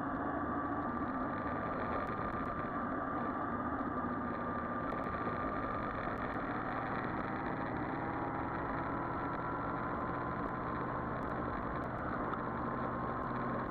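Yamaha Virago XV400 V-twin engine running steadily under way, its pitch drifting slightly, mixed with road and wind noise.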